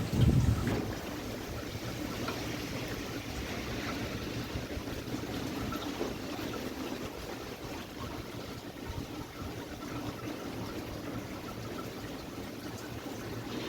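Strong gusty wind blowing ahead of rain, a steady rushing with a loud gust buffeting the microphone at the start.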